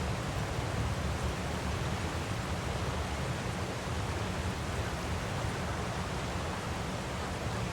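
Waterfall, a steady even rushing of falling water with a heavy low rumble.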